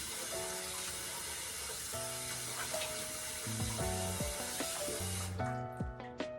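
Water running steadily from a tap into a sink over background music, stopping suddenly about five seconds in.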